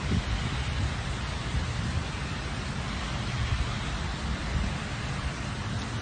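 Heavy rain pouring onto pavement: a steady rushing hiss over a low rumble.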